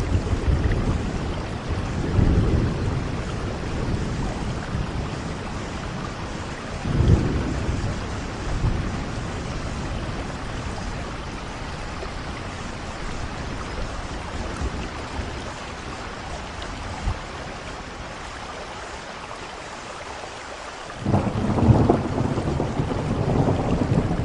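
Steady rain falling, with thunder rumbling: deep rolls in the first few seconds, a short surge about seven seconds in, then a sudden loud peal of thunder near the end.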